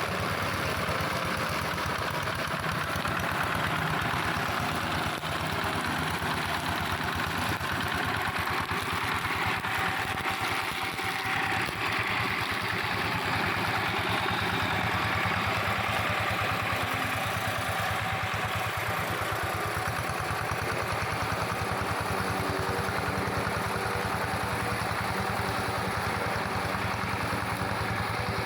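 Engine of a plough tractor converted into a brush mower, running steadily without a break.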